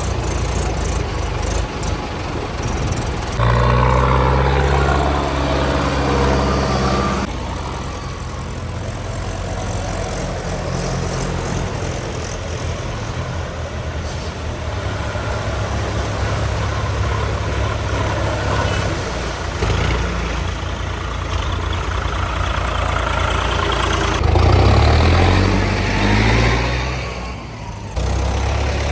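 Tractor diesel engines running, revving up and down in two stretches and otherwise running steadily, with the sound changing abruptly several times.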